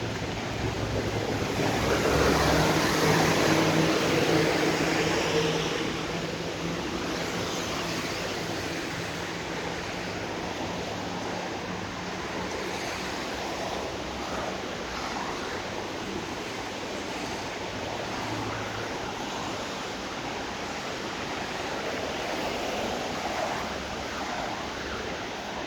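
Road traffic on a rain-soaked street: tyres hissing and splashing through water. One vehicle passes close about two to six seconds in, its engine briefly louder than the steady wet-road hiss that runs on after it.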